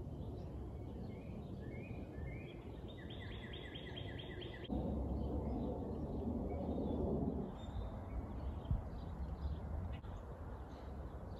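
Birds calling in woodland: a few short chirps, then a quick run of about seven evenly spaced notes. About five seconds in, a low rushing noise rises for about three seconds, then settles back to quiet outdoor background.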